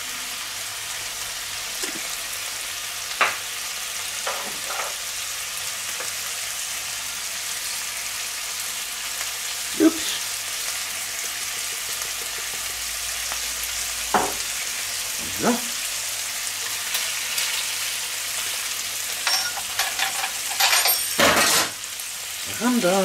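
Bacon, a beef patty and an egg frying in a pan, a steady sizzle throughout. A few single sharp clicks and knocks sound over it, with a short clatter near the end.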